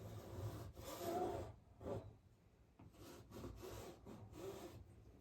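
Palette knife scraping thick acrylic paint across a canvas in several strokes, the loudest about a second in.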